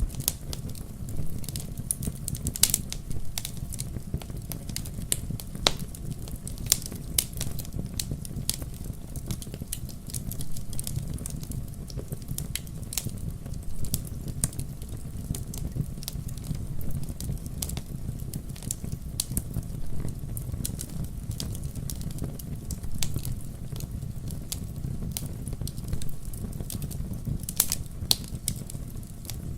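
Wood logs burning in a fireplace, crackling and popping irregularly over a steady low rumble of the fire.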